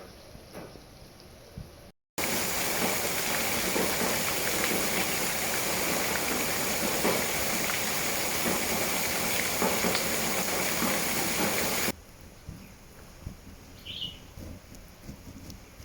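Heavy rain falling: a loud, steady hiss that cuts in abruptly about two seconds in and stops just as abruptly about three-quarters of the way through. Before and after it there is only quiet background, with a brief high chirp near the end.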